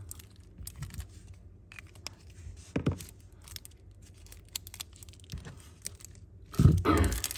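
Handling noise from lighters and packaging: scattered light clicks, a knock about three seconds in, then a louder burst of crinkling near the end.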